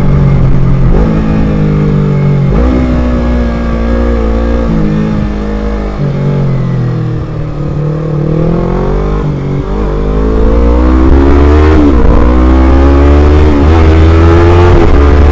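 Motorcycle engine running under the rider, its pitch dipping and then climbing steadily as it accelerates from about six seconds in, with two short sharp drops in pitch near the end. A strong low wind rumble on the microphone sits under it.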